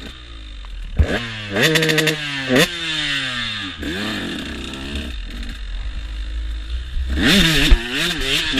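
KTM motocross bike engine revving hard, its pitch climbing in quick steps as the rider works up through the gears, dropping back and running lower mid-way, then revving up again near the end. Two sharp knocks cut in, about a second in and near the end.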